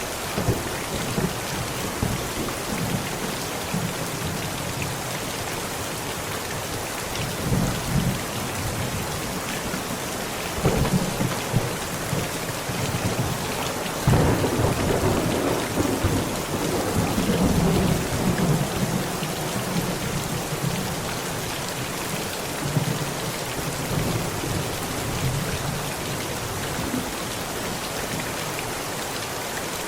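Heavy rain beating steadily on a tent, with thunder rumbling several times. The loudest peal starts with a crack about 14 seconds in and rolls on for several seconds.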